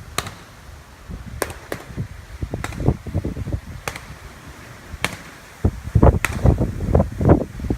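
Power line arcing: irregular sharp electrical cracks and snaps over a rough crackle, which becomes louder and denser after about six seconds.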